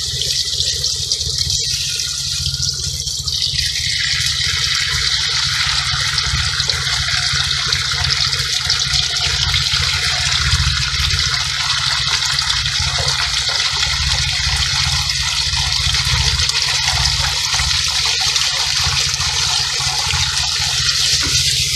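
Onion, garlic and tomato sauce sizzling in hot oil in a wok: a steady frying hiss that grows fuller about four seconds in, over a low rumble.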